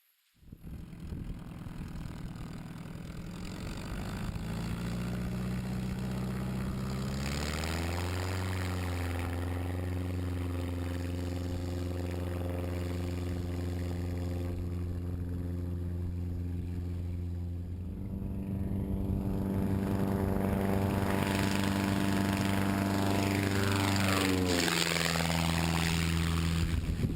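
Lake amphibian's piston engine and pusher propeller starting up and running, with the engine speed stepping up about eight seconds in and again near eighteen seconds.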